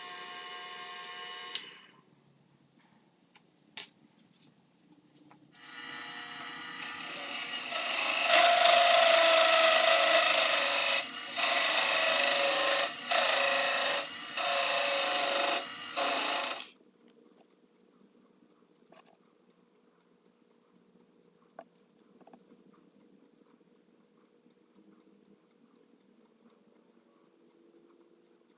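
A small power tool's motor whine that stops about a second and a half in. Then, from about five seconds in, a power tool runs loud against a workpiece for about eleven seconds, with four brief breaks near the end, before stopping suddenly. Only faint ticks follow.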